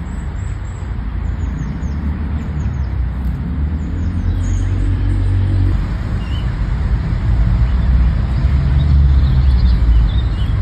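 Loud, low rumbling noise that swells and eases, with faint bird chirps in the first few seconds.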